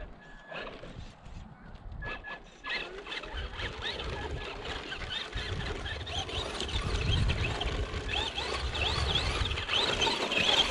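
Electric RC car motor whining up and down in short throttle bursts over a low rumble of its tyres on the ground, getting louder towards the end.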